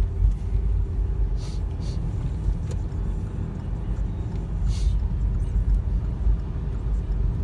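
Car driving on the road: a steady low rumble of engine and tyres, with no change in speed.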